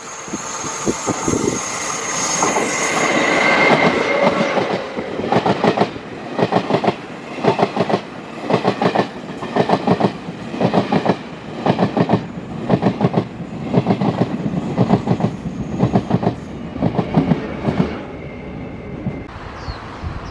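Passenger train passing close by. For the first few seconds there is a rising rush with a high, steady wheel squeal. Then the wheels clack over the rail joints in a steady rhythm, a little more than one clatter a second, and it dies away near the end.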